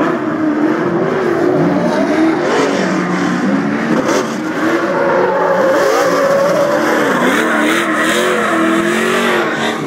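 Modified trucks' engines revving loudly, the pitch swinging up and down again and again.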